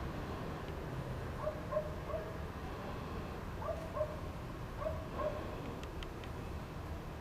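A dog giving short yips, mostly in pairs, several times over a steady low rumble.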